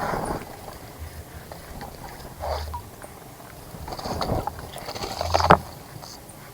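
Birds splashing and fluttering their wings in a bird bath: several short bursts of splashing, the loudest about five and a half seconds in.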